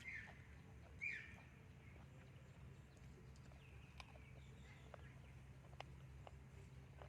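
Faint rural ambience with a few short chirping bird calls, the loudest about a second in, and scattered light clicks over a low steady hum.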